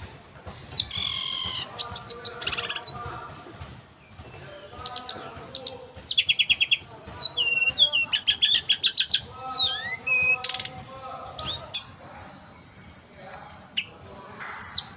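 Tledekan gunung songbird singing a full, varied song of whistled up-and-down glides, quick runs of repeated notes and trills, in phrases broken by short pauses.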